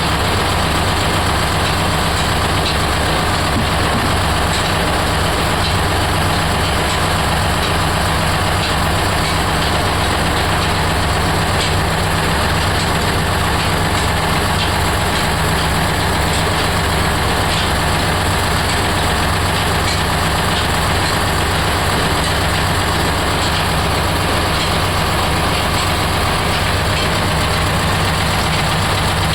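Oil expeller machine running steadily: a loud, continuous mechanical drone that does not change.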